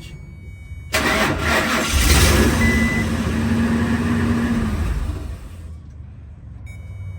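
Starter cranking the Ford Excursion's 5.4-litre V8 for about four seconds; it comes in suddenly about a second in and fades out without the engine catching. This is the crank-no-start condition: the fuel pump is getting 12 volts but is dead.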